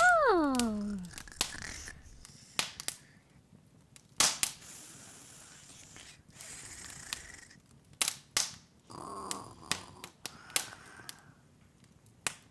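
A cartoon character's voice says a falling "Oh", then an open fire crackles, with scattered sharp pops and snaps.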